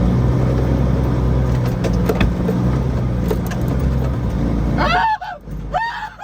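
Truck engine running hard under load as the truck tries to climb out of a muddy job site, then cutting out suddenly about five seconds in: the engine stalls, which the driver thinks came from bumping the key. A voice cries out near the end.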